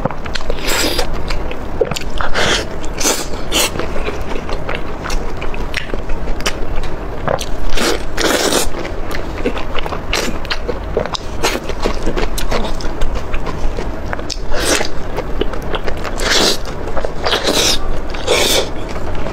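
Wet chewing and sucking of chilli-sauced food picked up close by a lapel microphone, an uneven run of smacks with louder slurping sounds every couple of seconds.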